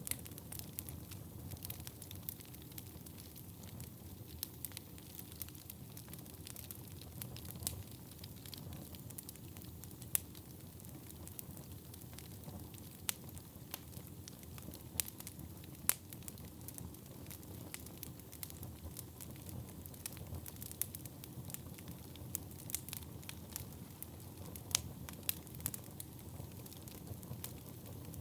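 Wood fire burning in a fireplace: a steady low rush of flames with scattered sharp crackles and occasional louder pops of burning logs.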